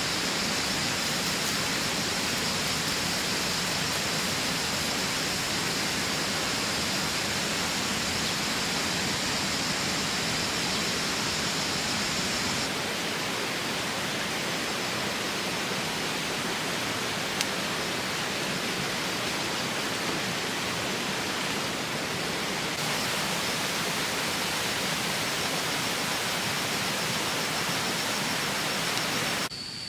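Steady wash of rushing water noise with no breaks. A thin, high, steady whine sits over it for the first dozen seconds and again in the last several seconds.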